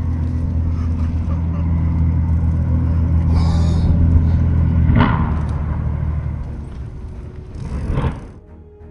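Low steady rumbling drone of a seaplane's engine that fades toward the end, with two sharp knocks about five and eight seconds in.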